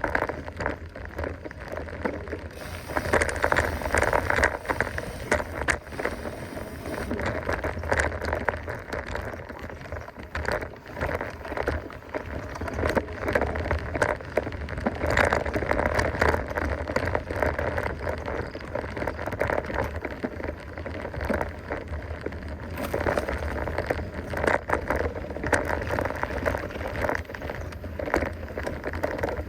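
Mountain bike riding along a dirt trail: tyres crackling over the ground, with a constant dense clatter of clicks and rattles over a low rumble.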